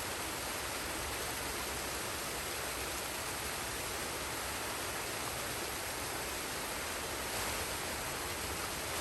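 Waterfall and forest stream rushing steadily, an even wash of falling water with no breaks.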